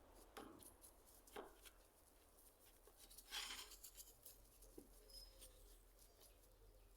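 Near silence, with faint small clicks and a brief scrape about three seconds in.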